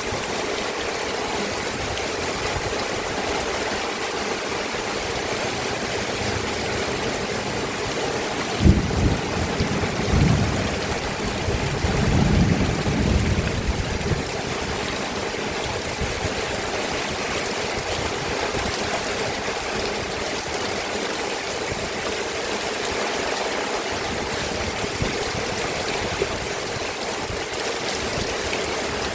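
Steady rain falling, an even hiss of water. About a third of the way in comes a low thump, followed by a few seconds of low rumbling.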